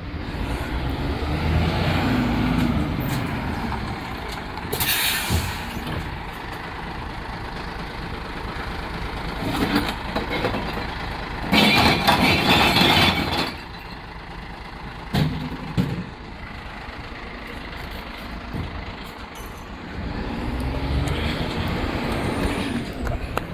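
Glass-collection rubbish truck's engine running and revving up near the start and the end, with a short air-brake hiss and a loud burst of noise about two seconds long near the middle.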